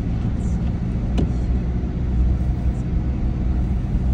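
Car driving: a steady low rumble of engine and tyre noise, with a single sharp click about a second in.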